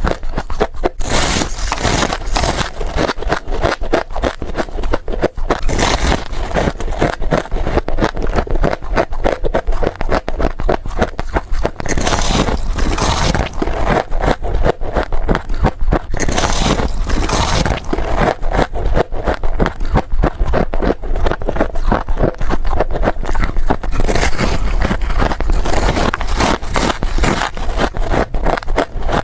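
Someone biting and chewing freezer frost in quick succession: dense, continuous crunching, with louder bursts of bites every few seconds.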